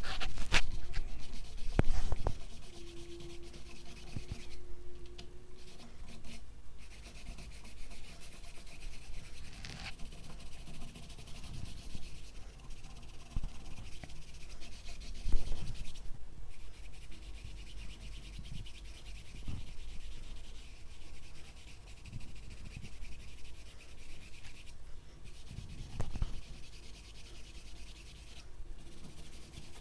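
Paintbrush working acrylic paint across the painting surface: irregular scratchy rubbing strokes, with a few soft knocks.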